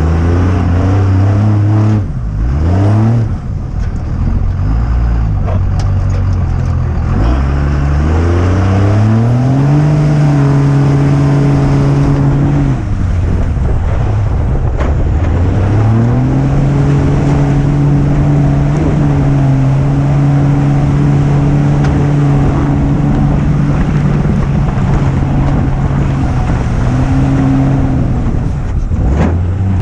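Truck engine revving hard and held at high rpm for long stretches, its pitch climbing in steps, sagging briefly about halfway through, then rising and holding again.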